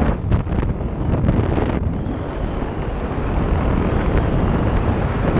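Heavy wind rushing over the microphone during a motorcycle ride, with the motorcycle's engine running underneath. The noise is uneven for the first couple of seconds, then steady.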